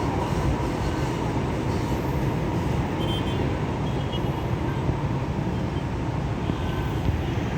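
Steady rumble of road traffic, engines and tyres running together with no single vehicle standing out.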